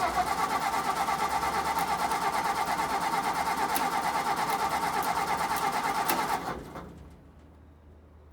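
Frandee Sno Shu snowcat engine being cranked by its starter for about six and a half seconds, with an even, rapid chugging rhythm, then stopping abruptly. The engine turns over but does not fire.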